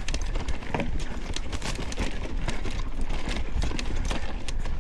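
Bicycle rattling and knocking over a rough trail: a dense run of irregular clicks and knocks, with wind rumbling on the microphone.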